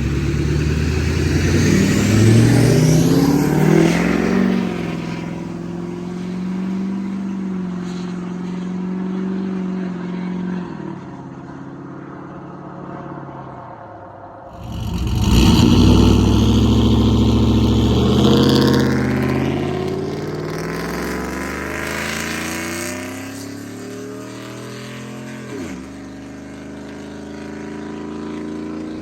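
Modified V8 pickup truck exhaust making two hard pulls. In each, the engine note climbs quickly in pitch, holds, then settles back down. The second pull starts abruptly about halfway through.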